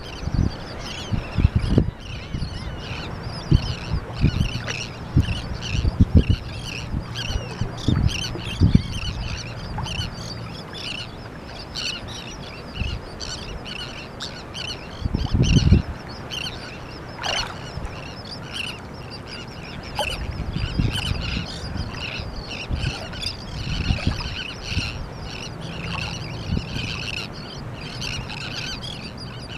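A large mixed flock of gulls and terns calling without pause, a dense overlapping chatter of short, harsh calls. Irregular low bursts of noise sound underneath, the strongest about halfway through.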